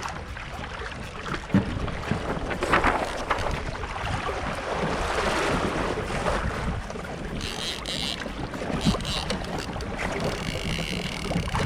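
Wind buffeting the microphone and water washing around a fishing kayak, with a few sharp knocks against the hull and a surge of hiss about halfway through.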